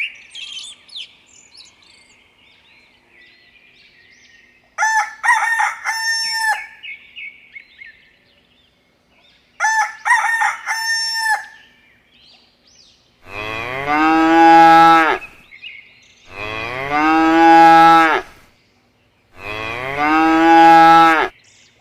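A rooster crowing twice, then a cow mooing three times in long, loud calls about a second apart, over faint bird chirping.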